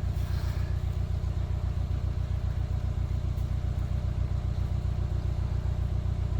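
Narrowboat's inboard engine running steadily at low revs, a low, even beat of firing pulses.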